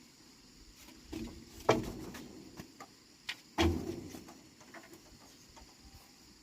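A few scattered knocks, the two loudest about two seconds apart, each dying away briefly, over a faint steady high hiss.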